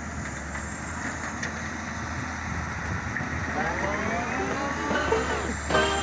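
Sumitomo excavator's diesel engine running steadily, with a rising whine joining in a few seconds in. Music comes back in just before the end.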